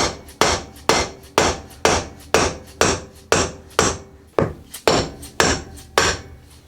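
Steady hammer blows, about two a second, driving a worn old wheel bearing out of a scooter's front wheel hub. Each blow is sharp, with a short metallic ring after it.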